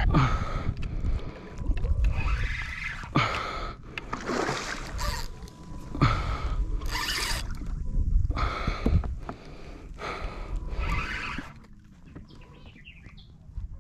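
Water splashing and sloshing against a fishing kayak in repeated bursts, about eight of them, while a hooked redfish is being fought.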